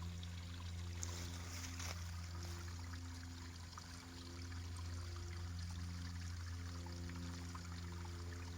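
Small spring-fed stream trickling, over a steady low drone with a few faint tones that come and go.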